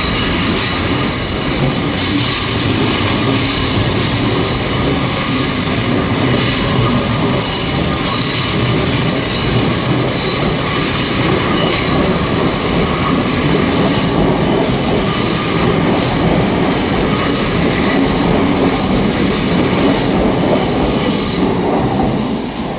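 A Hitachi Class 802 IET train pulling out of the station, its wheels squealing in several high, steady tones over the rumble of the train running on the rails.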